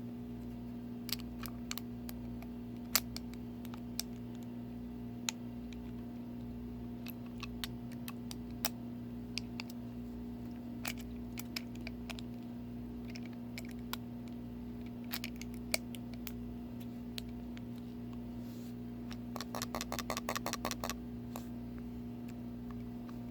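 Clicks from a Tesla Punk 85W vape box mod being pressed and handled as it fails to turn on, with a loose battery the cause. Single clicks come every second or so, then a quick run of about a dozen near the end, over a steady low electrical hum.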